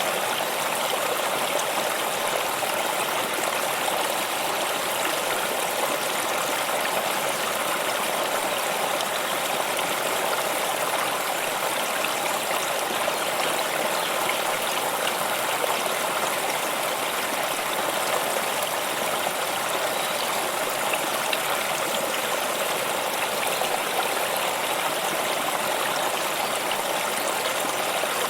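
A stream of water flowing steadily over rocks, with a constant rushing and trickling.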